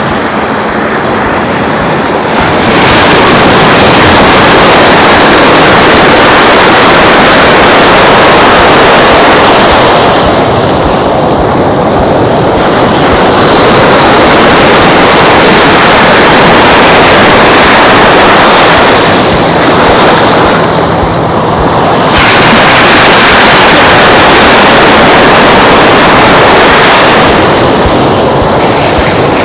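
Gulf surf washing onto the beach: a loud, continuous rush of waves that eases briefly three times and swells back.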